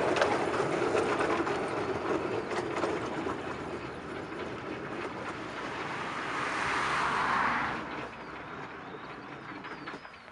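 Fairbourne Railway miniature train running on the track, its wheels clicking over the rails as it fades away. A hiss swells from about six seconds in and cuts off suddenly at about eight seconds, after which birds chirp faintly.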